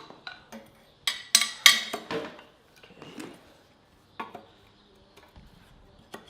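Sharp clinks and taps of small hard objects being handled: three quick strikes about a second in, then a few scattered fainter knocks.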